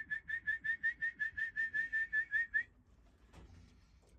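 A person whistling a fast run of short, slightly rising chirps, about seven a second, stopping about two-thirds of the way through: a pigeon fancier's whistle call to bring homing pigeons down to the loft.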